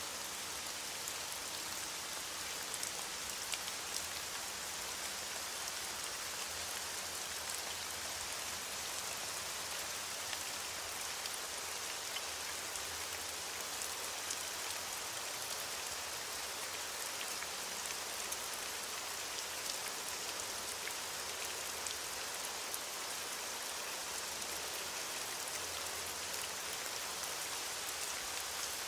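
Steady rain falling, a continuous hiss with many small drop ticks on a surface.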